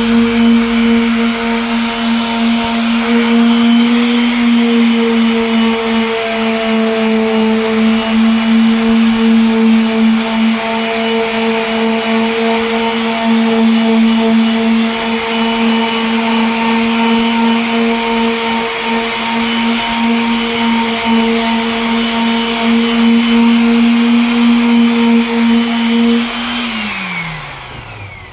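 Electric sander running at a steady whine while sanding a headlight lens, then switched off near the end, its pitch falling quickly as it winds down to a stop.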